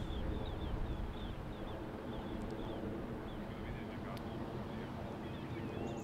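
Many short, high bird chirps repeating over a steady rushing background.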